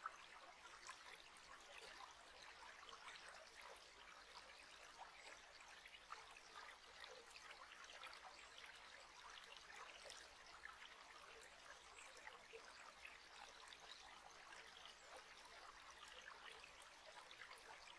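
Faint, steady trickling water, like a small stream running over stones, as a relaxation soundscape.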